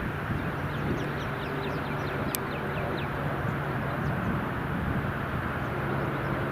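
Steady engine drone with a low hum, while a bird calls in a quick run of short, downward-sliding chirps during the first half.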